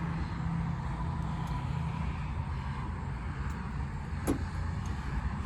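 An engine idling steadily with a low, even hum, and a single sharp click about four seconds in.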